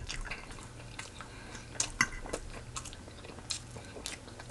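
A person chewing fried chicken close to the microphone: irregular soft crunches and mouth clicks.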